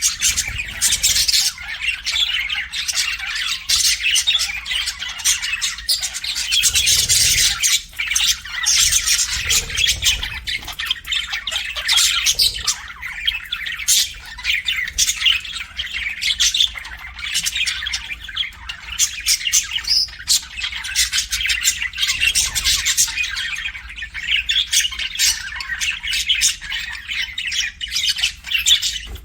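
Pet budgerigars chattering and squawking together in a dense, continuous stream of rapid, high chirps and warbles.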